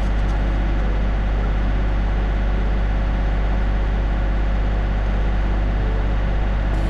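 Tractor engine running steadily at a constant speed, heard close up, with a deep, even drone.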